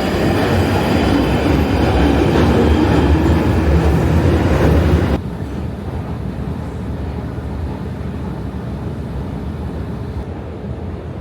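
Loud, steady rumbling noise of a vehicle in motion, strongest in the low range, that drops abruptly about five seconds in to a quieter steady background rumble.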